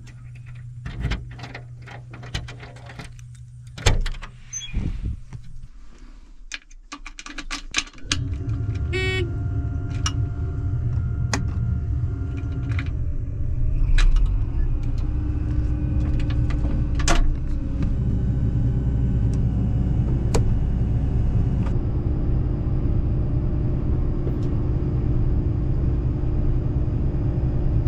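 Sharp clicks and knocks, like handling in a truck cab, for the first several seconds. Then, from about eight seconds in, a loaded grain truck's engine runs steadily with a low rumble.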